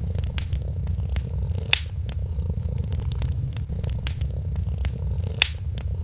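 A cat purring steadily in a low rumble, over the crackle of a wood fire: scattered small snaps throughout, and two louder pops, one about two seconds in and one near the end.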